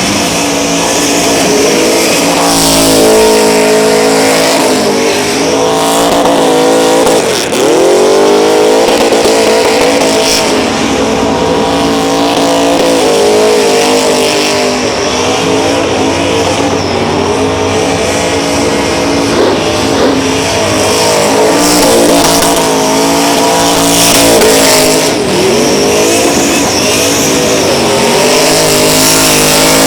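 Burnout car's engine held at high revs while its rear tyres spin and squeal. The revs drop sharply and climb back up about seven seconds in, and again later.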